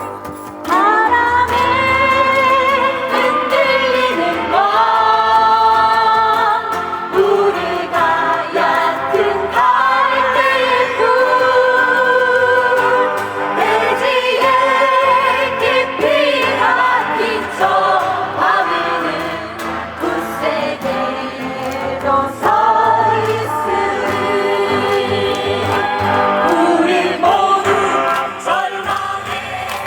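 A group of voices singing a lively song together, chorus-style, with live keyboard and guitar accompaniment.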